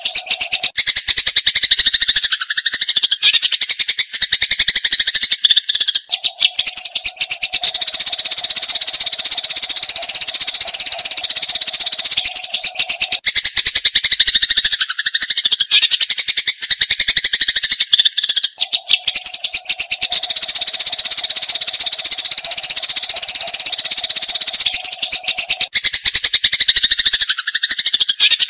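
Eurasian tree sparrows chattering in a dense, rapid stream of chirps, the agitated fighting chatter ('gereja tarung') used to train songbirds. A steady low tone comes in and drops out twice.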